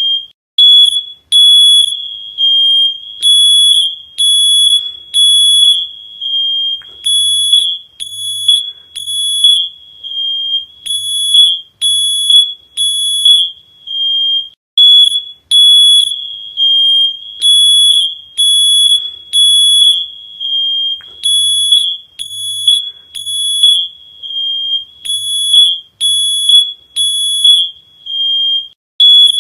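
Smoke alarm sounding: a loud, high-pitched beep repeating in groups of three with a short pause between groups, the three-beep pattern of a fire alarm.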